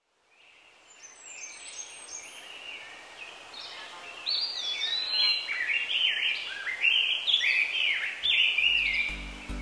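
Birdsong fading in and growing louder: several birds singing overlapping whistled phrases that rise and fall. Near the end, music with a steady low bass begins.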